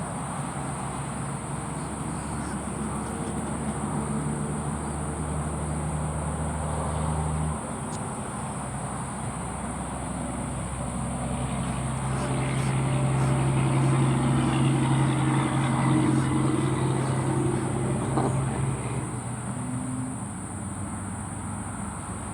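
Motor vehicle engine running nearby: a steady hum at first, then a vehicle grows louder to its peak around the middle and fades away near the end.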